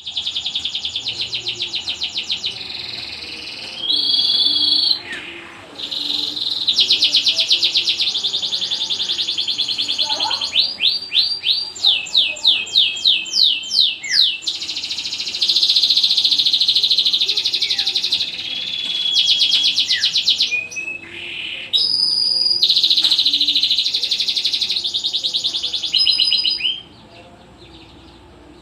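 Domestic canary in full song: long, varied phrases of rapid high trills and repeated chirps, with a run of slower down-sweeping notes partway through. The song breaks off near the end.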